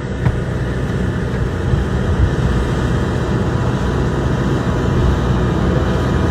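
Steady low engine rumble with no change in pitch, cutting off sharply at the end.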